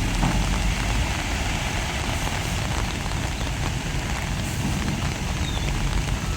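Heavy diesel earthmoving machinery running steadily with a low rumble.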